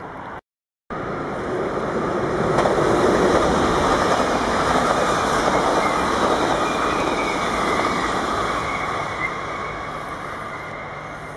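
A yellow-and-blue NS double-deck electric train passing close by at speed, its wheels running on the rails; the noise builds to a peak a few seconds in, then fades steadily as the train draws away. A half-second dropout of total silence comes just before it.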